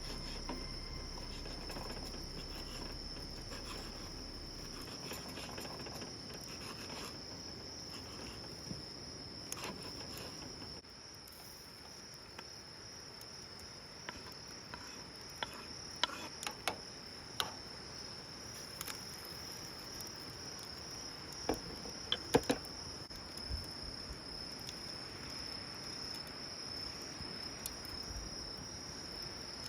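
Crickets singing in a steady high-pitched trill, with a scatter of short sharp clicks and taps in the middle of the stretch.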